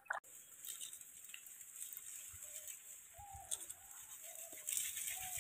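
A bird calling in the background: a run of short, arched notes, about five of them, starting about two seconds in.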